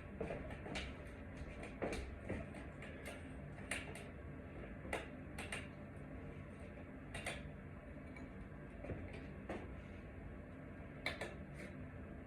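Scattered light clicks and taps of small hardware and tools being handled, about a dozen at uneven intervals, over a faint steady hum.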